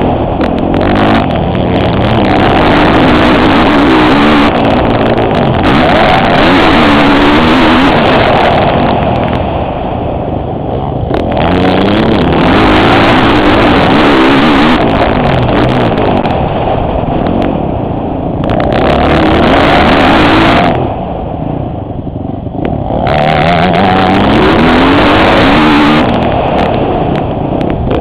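Motocross bike engine heard from the rider's helmet camera, revving up hard and dropping off the throttle again and again, with several deeper lulls where the revs fall away, the longest a little over 20 seconds in.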